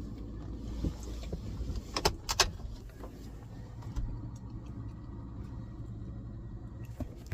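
Vehicle engine idling with a steady low rumble. Two sharp clicks come about two seconds in, with a few fainter clicks later.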